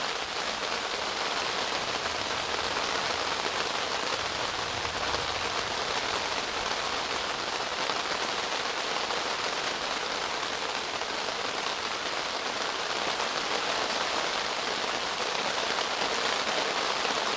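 Heavy rain coming down pretty good on a tent, a steady unbroken hiss of drops.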